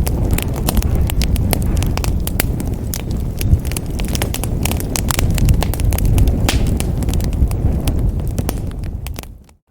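Wood fire in a fireplace crackling, with many sharp pops over a steady low rumble. The sound fades away to near silence just before the end.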